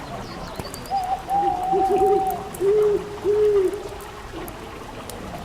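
Owl hooting: a long higher hoot, then three lower hoots, the first of them quavering, over the faint crackle of a fireplace fire.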